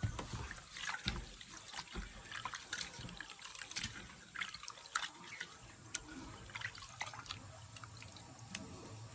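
Water splashing and dripping in many small, irregular splashes.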